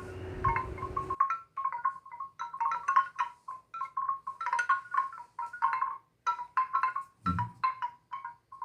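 One of the built-in relaxation sounds of a small white-noise sound machine playing through its speaker: a string of short, bright notes with brief pauses, like a mallet-instrument lullaby.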